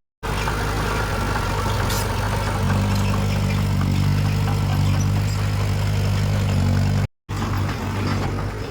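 Heavy diesel earthmoving machine's engine running steadily with a low hum, which grows stronger about a third of the way in. The sound cuts out for a split second at the start and again near the end.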